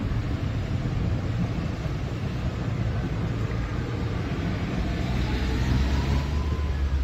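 Steady low rumble of a distant container freight train running across a viaduct, with a faint thin whine about five seconds in.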